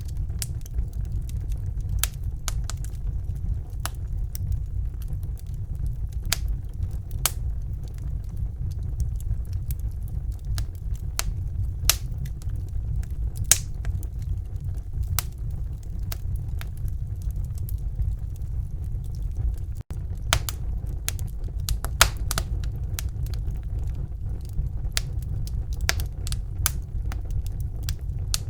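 Wood fire burning in a fireplace: a steady low rumble of flames with sharp crackles and pops scattered through it, coming thicker in the second half. The sound drops out for a split second about two-thirds of the way through.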